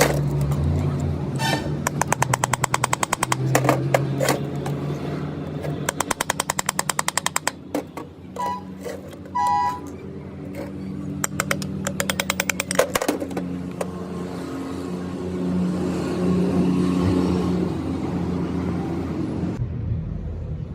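Workshop machinery running with a low hum, broken several times by bursts of rapid clicking, about ten a second.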